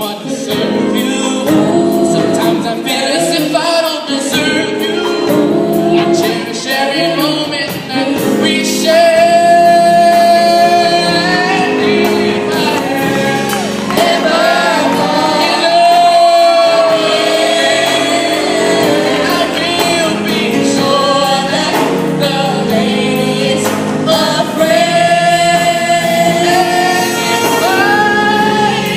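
Mixed-voice high school vocal group singing in close harmony, a solo voice with vibrato soaring over the group's held chords.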